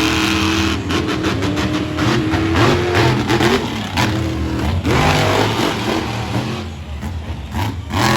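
Monster truck engine revving, its pitch rising and falling, with a run of sharp cracks in the first few seconds.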